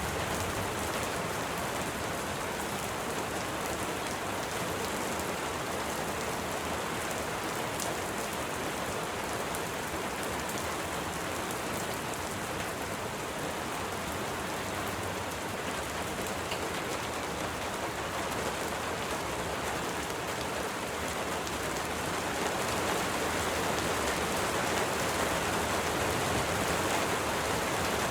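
Steady rain falling on a surface, an even hiss of many drops that grows slightly louder over the last few seconds.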